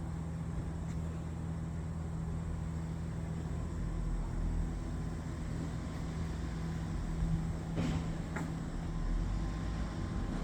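Steady low machine hum with a low rumble, and two brief ticks about eight seconds in.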